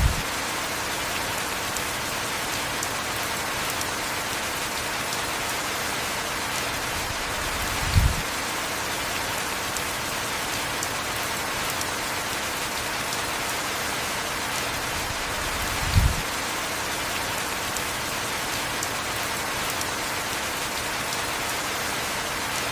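Heavy rain falling steadily, an even hiss of rainfall. A short low thump breaks through three times, evenly spaced about eight seconds apart.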